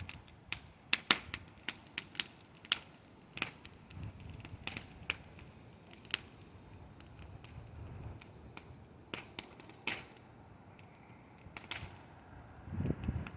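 Bonfire crackling, with sharp irregular pops and snaps scattered through, some louder than others. Near the end a low rumble comes up under the pops.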